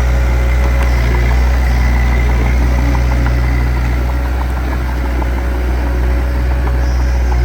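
Diesel engine of heavy earthmoving machinery running steadily, a deep low hum with faint, irregular light ticks over it.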